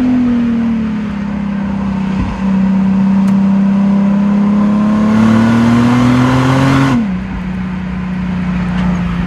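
2010 Infiniti G37 sedan's V6 engine and exhaust on the move, a steady engine note with a brief dip about two seconds in. The note then climbs gradually as the car pulls and drops suddenly about seven seconds in.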